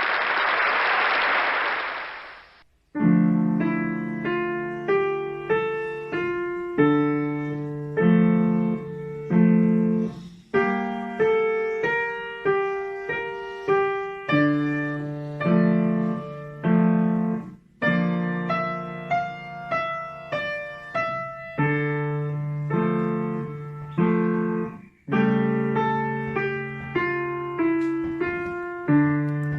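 A short burst of even noise for about the first three seconds, then a piano playing a slow melody over repeated low chords, the notes struck and left to ring away.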